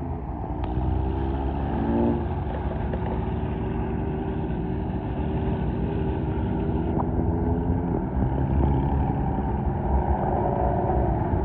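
A car engine running steadily at low revs, its pitch rising briefly about two seconds in.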